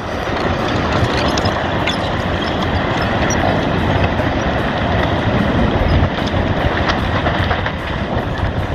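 Landslide: a loud, steady rumbling and rushing noise of moving earth that starts abruptly and does not let up.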